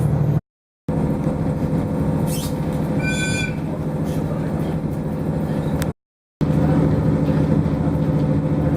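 A diesel local train's engine and running noise inside the passenger car, a steady hum. About three seconds in there is a brief high squeal. The sound cuts out completely twice for a moment.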